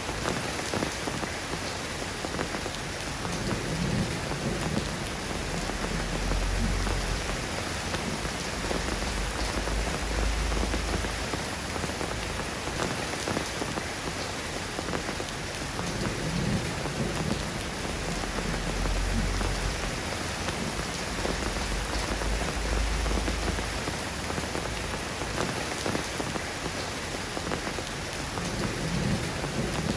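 Steady soft rain falling on a surface, an even hiss of drops, with a deep low rumble swelling and fading several times underneath.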